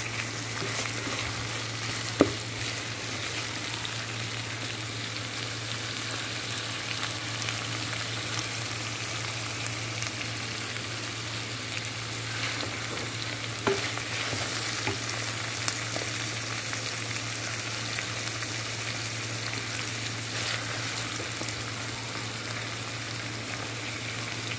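Shredded chicken and diced vegetables sizzling in a frying pan as they are stirred with a wooden spatula, which scrapes and taps the pan now and then, with a sharp knock about two seconds in.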